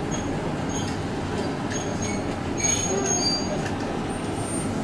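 Ex-Kintetsu 610 series electric train rolling slowly through depot trackwork, heard from inside the car as a steady rumble. Its wheels give several short high-pitched squeals, the loudest lasting about a second from around halfway through.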